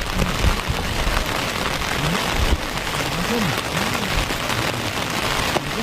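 Steady heavy rain falling and pattering on surfaces, an even hiss.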